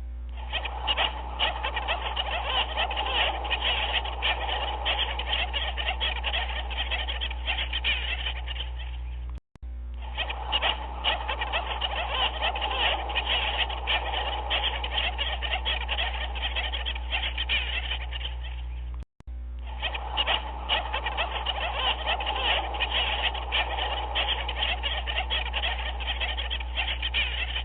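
A dense chorus of many animals calling at once, a continuous croaking chatter. It cuts out briefly and restarts twice, as a looped recording does, over a steady low hum.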